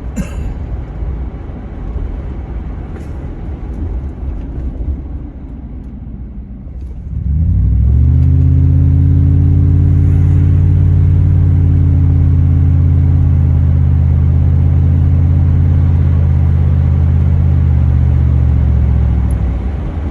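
Vehicle engine while driving: a low rumble at first, then about seven seconds in a loud, steady, low engine drone at an even pitch that holds for some eleven seconds before easing off near the end.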